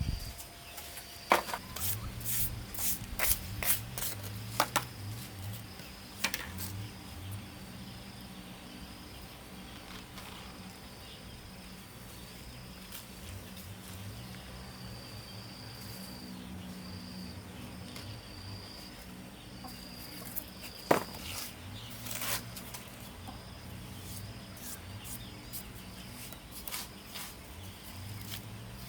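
Outdoor ambience: a high, thin insect trill in repeated short phrases over a low hum that comes and goes, with scattered sharp clicks and taps, the loudest about a second in and again near 21 seconds.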